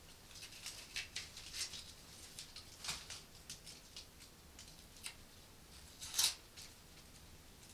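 Light handling noises in a small room: scattered soft rustles and small clicks, with a louder rustle about six seconds in.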